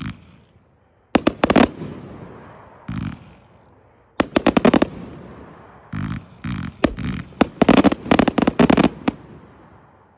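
A Nunya 250-shot hitter firework cake firing loud salute reports in quick volleys, the bangs coming in tighter clusters through a dense finale that stops about nine seconds in. Each burst echoes and dies away.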